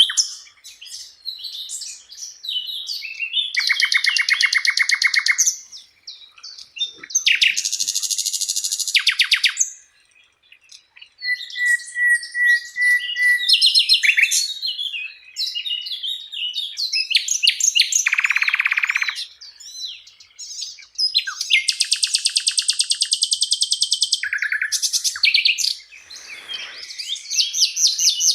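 A sikatan londo flycatcher singing a long, varied song: bursts of rapid trills, buzzy phrases and a held whistle, with short pauses between phrases.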